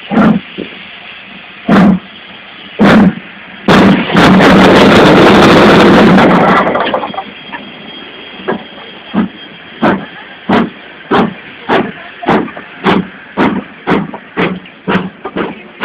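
GWR King class 4-6-0 steam locomotive 6023 King Edward II setting off, its four-cylinder exhaust giving a few heavy chuffs about a second apart. Then comes a few seconds of continuous rushing exhaust that fits a wheel slip. The beats then come back, quickening from about one and a half to over two a second as the engine gets away.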